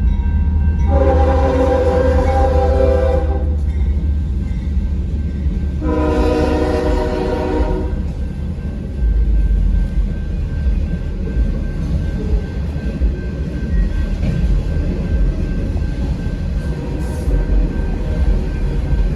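Two long blasts of a multi-note air horn, each about two and a half seconds, the first a little longer, over a steady low rumble.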